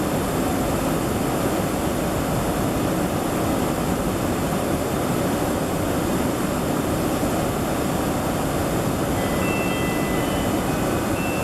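Steady cabin noise of an airliner in flight: the even, unbroken rush of jet engines and airflow heard from inside the passenger cabin. A few faint, short high tones sound near the end.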